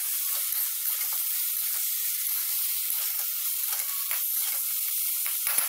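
Vegetables sizzling as they fry in a metal wok while being stirred with a metal spatula: a steady frying hiss, with a few light clicks and knocks of the spatula against the pan near the end.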